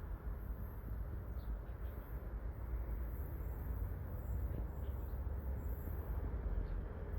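Low, steady rumble of an approaching train, slowly growing louder.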